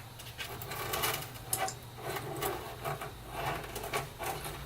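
Power-supply cables being pushed and tucked into a PC case: irregular plastic clicks, taps and rubbing against the case, over a low steady hum.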